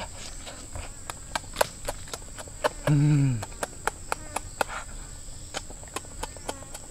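Close-up wet smacking and chewing of someone eating duck eggs: a quick series of sharp mouth clicks, with a short falling "mmm" of enjoyment about three seconds in.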